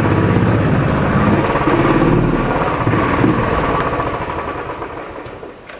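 Royal Enfield Classic's single-cylinder engine running at low revs as the motorcycle is ridden slowly, fading away near the end.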